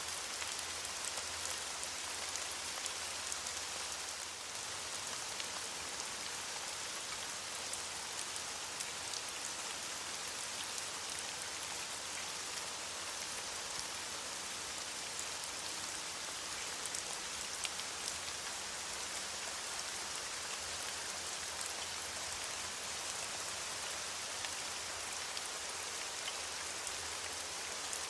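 Steady rain falling on leaves, an even hiss with scattered small drop ticks.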